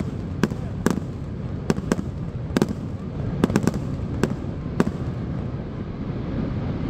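Aerial fireworks shells bursting overhead: about ten sharp, irregular bangs, some in quick clusters, over a steady low rumble.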